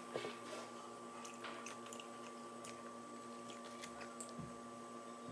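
Faint chewing with small, scattered mouth clicks as a person eats, over a steady low hum.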